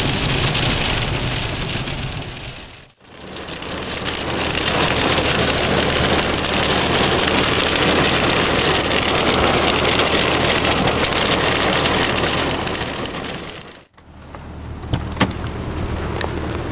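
Steady hiss of sleet and slushy road heard from a moving car, over the engine's low hum. The sound drops out and comes back twice, and a few sharp ticks come near the end.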